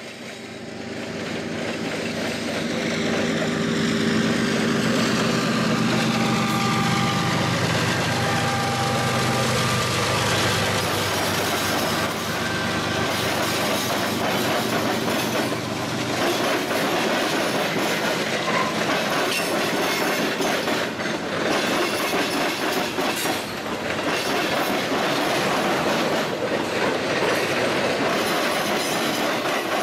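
Freight train passing close by: a CSX diesel-electric locomotive's engine goes by in the first ten seconds or so, its tone falling and fading, then the freight cars roll past with the wheels clattering over the rail joints.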